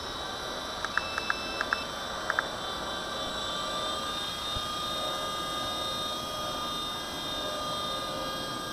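Small electric RC helicopter hovering, its motor and rotor blades giving a steady whine. Between about one and two and a half seconds in, a quick cluster of short beeps cuts in.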